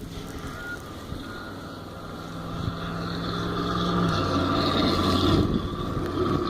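A 4x4 pickup truck driving past on a snowy street, its engine tone growing louder as it approaches and dropping in pitch about four seconds in.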